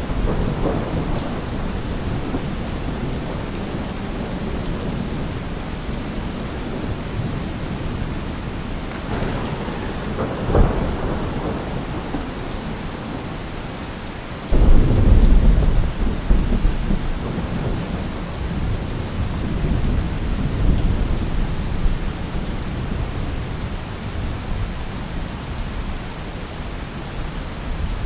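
Steady heavy rain with thunder. A crack and rumble come about ten seconds in, then a sudden loud thunderclap about halfway through, the loudest moment, rolls on into low rumbles that fade away.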